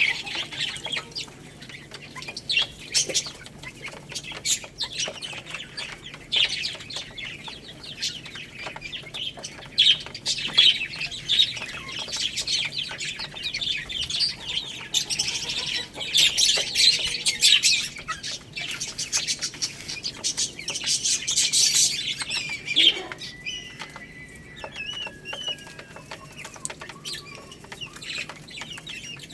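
Baby chicks chirping while pecking at rice, with a busy run of quick high taps and scratches among the cheeps. The tapping thins out in the last few seconds, leaving scattered high chirps.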